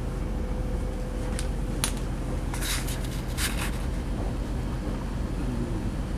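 Class 185 diesel multiple unit's underfloor diesel engine running with a steady low rumble, heard from inside the carriage. A few short clicks and rattles come between about one and a half and three and a half seconds in.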